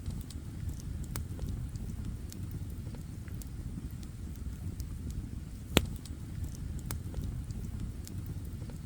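Wood campfire crackling, with scattered snaps over a low steady rumble and one loud pop about six seconds in.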